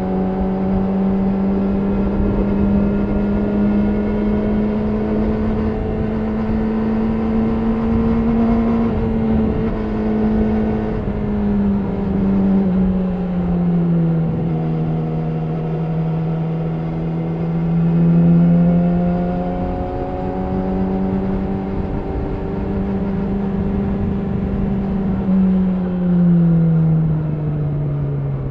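Yamaha R6 inline-four engine through an Akrapovic slip-on exhaust, running at fairly steady revs while riding, its pitch drifting slowly up and down. The revs drop about halfway through and fall again near the end.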